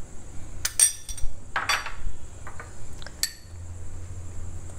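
A spoon clinks against a bowl a few times, with three sharp clinks that ring briefly, as a tablespoon of ginger-garlic paste is added to the chicken.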